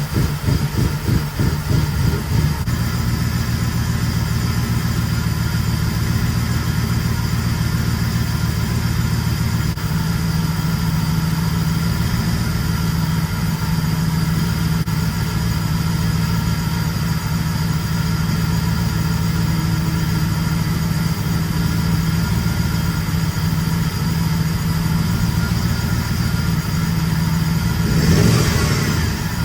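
Freshly overhauled car engine idling after start-up: uneven and pulsing for the first couple of seconds, then settling into a steady idle. A brief louder surge comes near the end.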